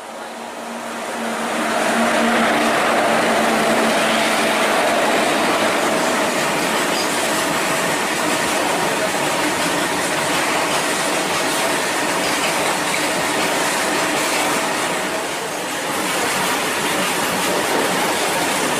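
Two coupled Indian Railways locomotives passing at high speed: a loud, steady rush of wheel-on-rail and running noise that builds over the first two seconds, with faint steady tones from the running gear and a brief dip about 15 seconds in.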